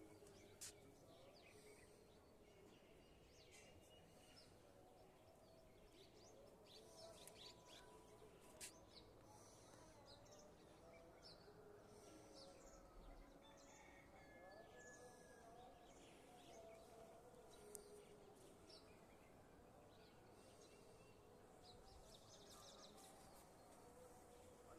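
Faint background noise with scattered brief bird chirps.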